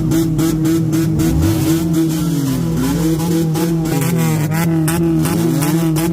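Car engine held at high revs, its pitch dropping and climbing back a few times, while the exhaust crackles and pops over and over: a pops-and-bangs exhaust tune.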